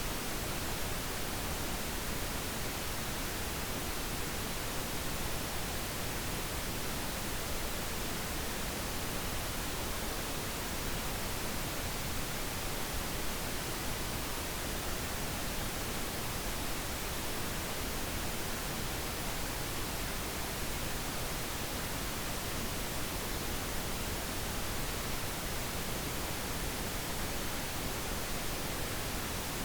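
Steady pink noise: an even, unchanging hiss spread across the whole range from low to high.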